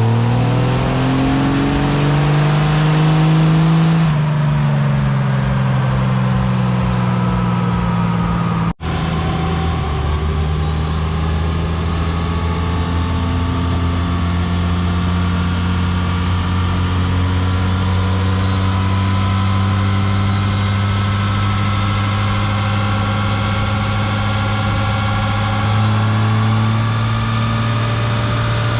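A vehicle engine revs, rising in pitch for a few seconds before dropping back. After an abrupt cut about nine seconds in, it runs steadily.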